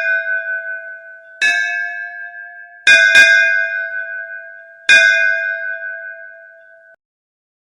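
A metal bell struck four times, two of the strokes in quick succession, each one ringing out with the same clear tones and fading. The ringing cuts off abruptly near the end.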